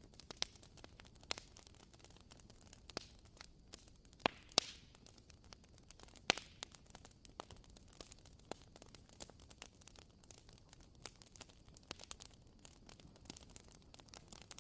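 WoodWick candle's wooden wick crackling like a small campfire: irregular sharp pops over a faint steady hiss, the loudest few coming between about four and six and a half seconds in.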